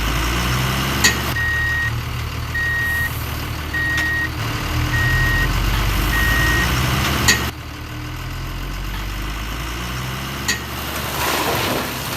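Heavy diesel engines running steadily, with a vehicle's reversing alarm beeping five times, about once a second, in the first half. There are a few short sharp clicks, and the sound changes abruptly a little past halfway.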